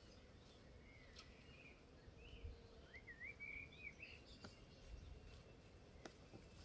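Faint birdsong: a few short chirps, then a warbling call in the middle, over a low outdoor rumble with a few soft clicks.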